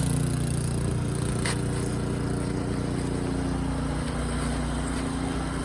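Snow blower's petrol engine running steadily under load, a constant, even drone.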